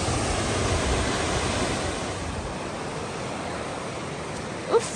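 Steady rush of a waterfall and river cascade, a continuous even roar of falling water that grows a little fainter about two seconds in.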